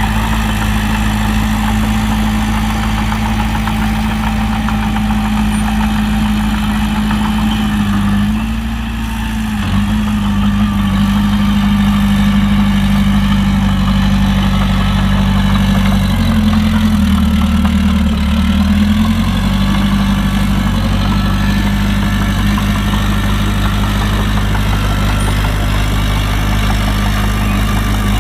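Heavy diesel engine of earthmoving machinery running steadily, with a brief dip around eight seconds in and a shift in its pitch for a few seconds in the second half before settling back.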